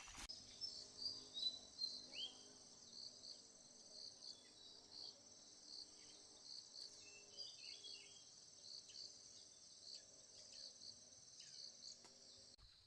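Insects chirping steadily at a high pitch, with short chirps repeating about twice a second. A few faint bird chirps come through here and there.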